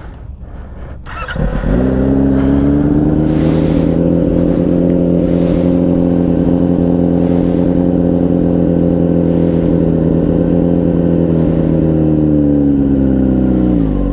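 Motorcycle engine starting about a second in and running at a steady idle. Near the end its revs sag as the clutch is let out while the brakes are held on, lugging the engine down.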